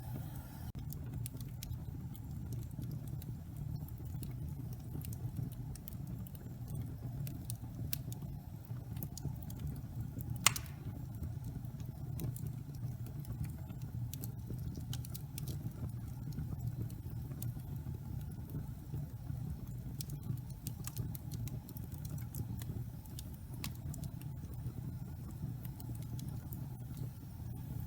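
Log fire burning in a fireplace: a steady low rumble of flames with scattered crackles and one louder pop about ten seconds in.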